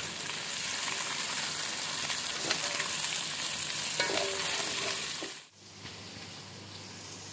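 Sliced onions, green chillies and garlic sizzling in hot oil in a stainless steel pan as a wooden spatula stirs them, with a few light knocks. The sizzle cuts off abruptly about five seconds in, then goes on more quietly.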